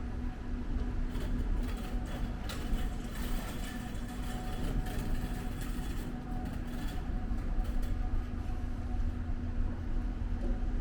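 Steady low rumble of a running vehicle engine with a constant hum, and a few faint clicks.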